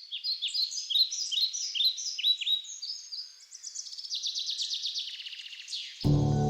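Birds singing: a run of quick, repeated chirping notes, then a fast trill in the middle. Music comes in suddenly near the end.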